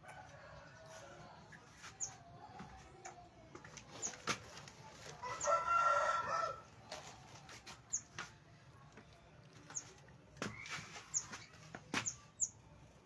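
A rooster crows once, a loud call of about a second and a half roughly five seconds in, over short high chirps of small birds repeated throughout and a few sharp taps.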